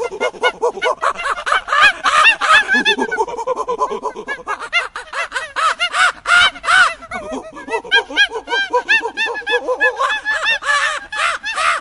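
A flock of birds calling: many short, harsh calls, several a second, overlapping throughout.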